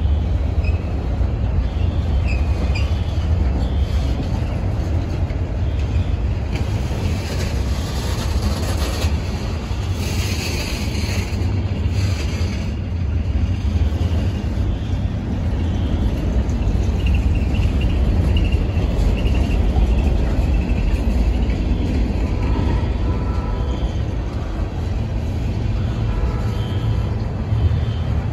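Norfolk Southern freight train cars rolling past at close range: a steady low rumble of wheels on the rails.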